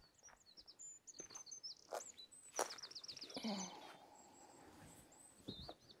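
Faint birdsong: short high chirps and a quick repeated trill about halfway through, with a few faint knocks.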